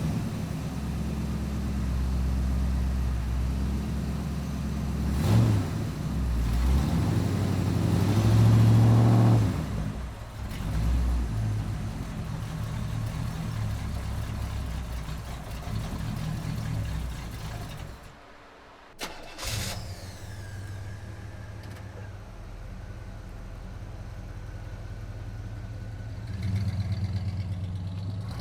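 Car engine catching and running, revved several times, the biggest rev about eight seconds in, then idling. It cuts out just after eighteen seconds, starts again a second later and idles with a faint high whine, rising briefly near the end.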